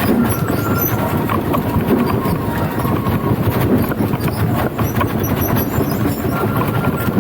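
Wooden danjiri festival float rolling along the street: a steady, dense clatter of its wheels and timbers, with thin squealing tones coming and going.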